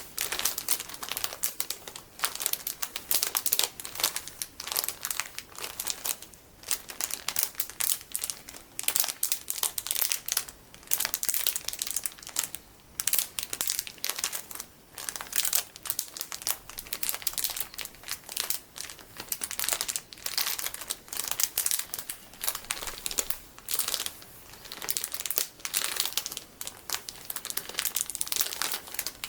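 Golden sticky beads in plastic packaging being squeezed and crinkled by hand, a dense crackling with a few brief pauses.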